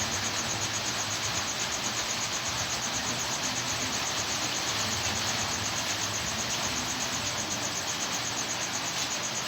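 Steady background noise with a fast, evenly pulsing high-pitched insect trill running through it.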